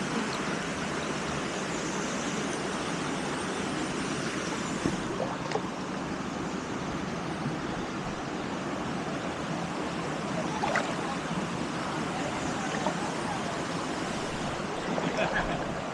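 Steady rush of a waterfall pouring into a rock pool, with a few brief faint sounds over the water noise.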